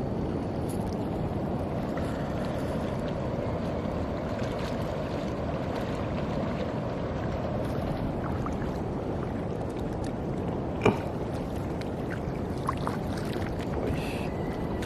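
A steady rushing of moving water, with one sharp click about eleven seconds in.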